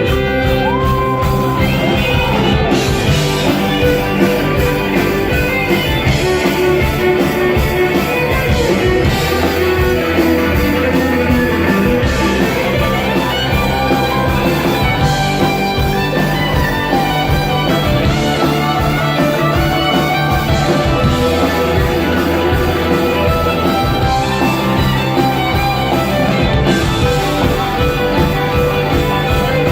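Rock band playing an instrumental passage with electric guitar lead lines over bass and drums.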